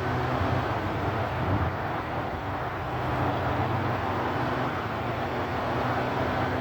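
Front-load garbage truck's diesel engine running steadily with a low, even hum.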